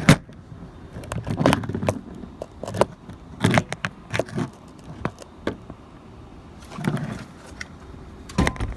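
Handling noises as the pressure washer is tipped up and moved about: irregular knocks, clunks and light metallic rattles, with scraping between them.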